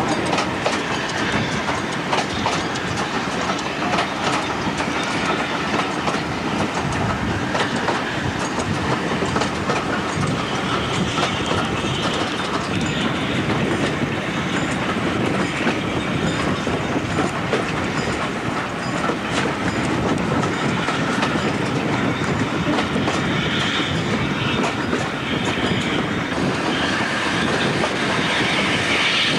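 Passenger train coach running along the line, heard from a carriage window: a steady rumble of wheels on the track, broken by irregular clicks and knocks from rail joints.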